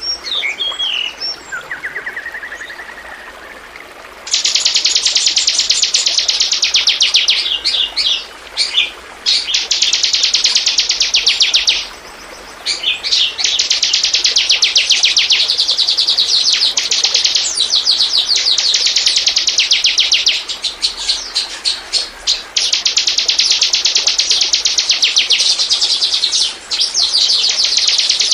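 Bar-winged prinia (ciblek) singing: long, fast, high-pitched trills repeated in bouts of several seconds with short breaks between them, after a few scattered chirps in the first four seconds.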